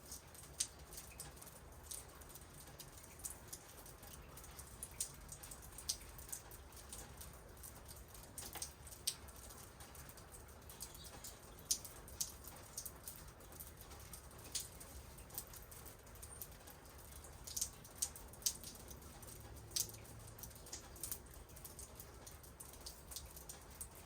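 Rain in a backyard: scattered raindrops and drips ticking irregularly, a few a second, some sharper than others, over a faint steady low rumble.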